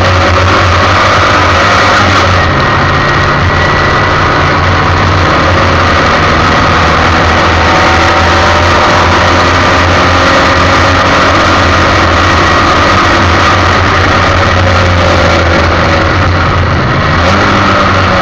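A Formula 1600 race car's engine heard onboard, running hard. Its pitch drifts up and down, and it shifts about two seconds in and again near the end, as with gear changes.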